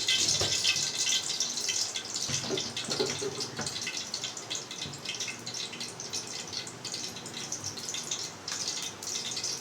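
Refined vegetable oil heating in a pan on the stove, with a steady hiss and fine crackling. A few light knocks come in the first few seconds.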